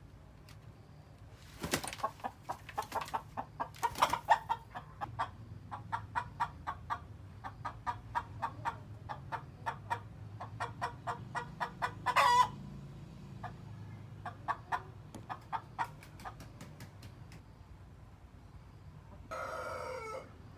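Chickens clucking: a long run of short clucks, about three a second, with a short pitched call near the end.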